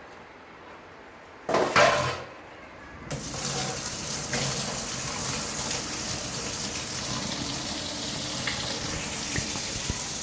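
Water running in a steady stream, starting about three seconds in, after a brief loud clatter.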